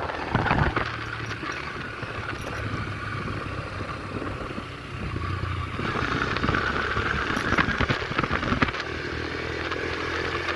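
Yamaha YBR 125G motorcycle's single-cylinder four-stroke engine running under way, growing louder about six seconds in.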